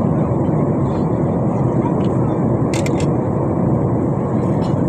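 Steady roar of an airliner cabin in flight: jet engine and airflow noise, with a couple of short clicks about three seconds in.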